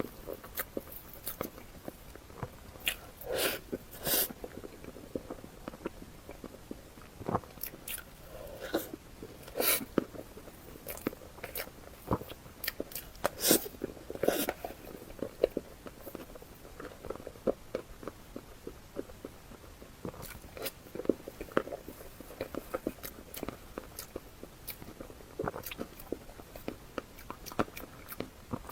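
Close-miked eating: bites and chewing, an irregular run of short clicks and smacks with a few louder bites scattered through.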